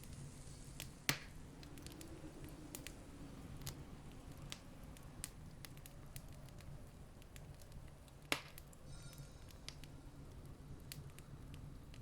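Campfire crackling: scattered small pops and snaps, with two louder pops about a second in and just past eight seconds, over a low steady rumble.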